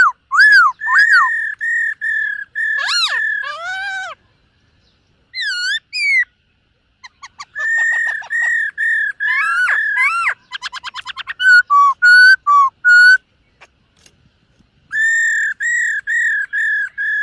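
Black-throated laughingthrush singing: loud, clear whistled phrases of slurred notes broken by short pauses, with a fast trill of rapid repeated notes partway through.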